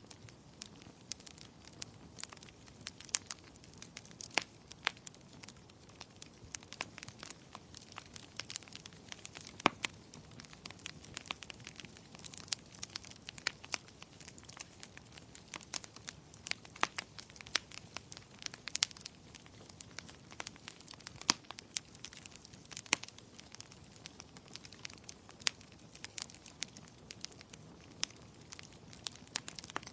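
Wood fire crackling in a fireplace: irregular sharp snaps and pops, several a second and a few much louder, over the low steady rush of the flames.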